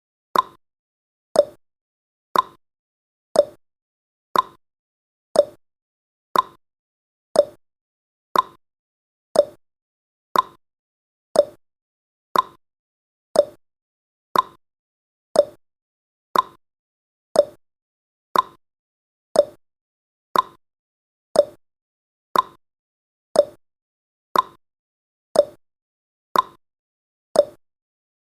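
Countdown timer's tick sound effect: one short, sharp tick every second, evenly spaced.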